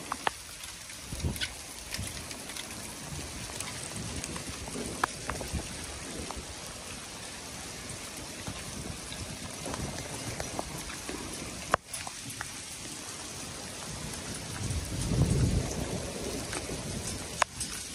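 Steady rain falling on wet paving, with scattered sharp taps. A louder low rumble swells and fades about fifteen seconds in.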